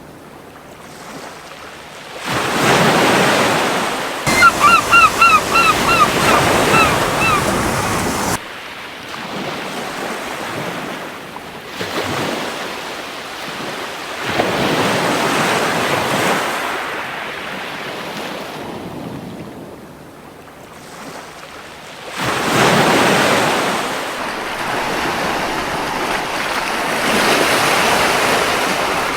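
Gentle surf washing onto a beach, rising and falling in several slow surges. About four seconds in, a seagull gives a quick run of about eight short calls lasting some three seconds.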